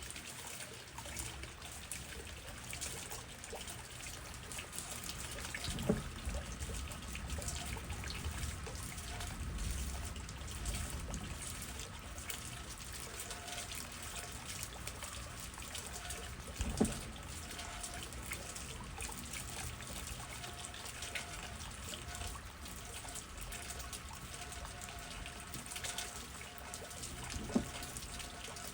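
Steady rain with dripping and trickling water and a low rumble underneath. Three louder drips stand out, at about six, seventeen and twenty-seven seconds.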